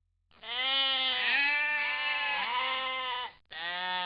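Sheep bleating: a wavering baa in three pulses lasting about three seconds, then a short break and another bleat starting just before the end.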